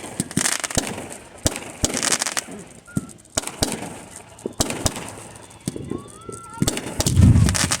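Fireworks going off: a rapid series of sharp bangs and crackling bursts, with a loud deep boom about seven seconds in.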